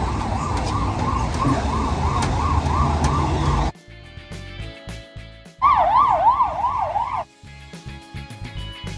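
Emergency-vehicle siren yelping, its pitch sweeping rapidly up and down about three times a second, over street traffic noise. The street sound cuts off abruptly a little under four seconds in and gives way to background music. A loud burst of the same siren yelp cuts in over the music for a couple of seconds.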